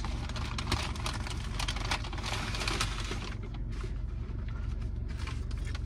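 Close-up chewing and crunching of a sauced fried chicken wing, a dense run of small crackles that thins out after about three and a half seconds, over a steady low rumble in a car cabin.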